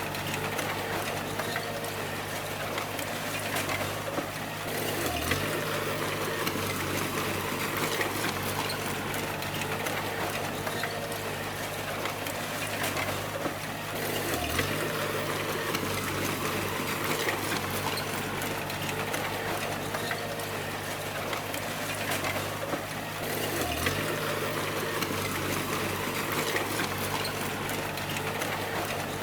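Bulldozer's diesel engine running steadily under load over a dense rattling hiss. The engine note dips briefly three times, about every nine to ten seconds.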